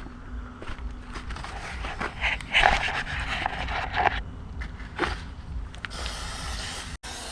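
Cleaning fluid being sprayed onto a dirty engine in short hissing bursts, over a low background rumble; near the end it turns to a steadier hiss.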